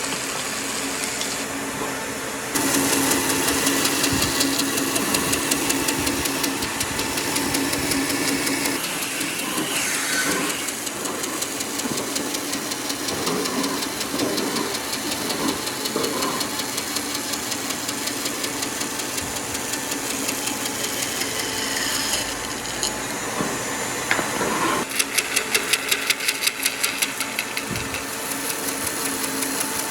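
Electric woodworking power tools running, with a steady motor hum that shifts in level and character a few times, and a quick run of rapid clicks near the end.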